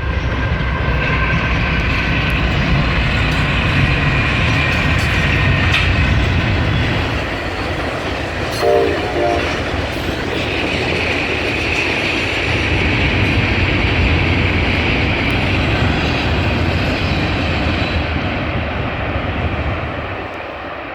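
Diesel-hauled train passing, with steady locomotive engine rumble and rolling rail noise. Two short tones sound about nine seconds in. The sound fades near the end.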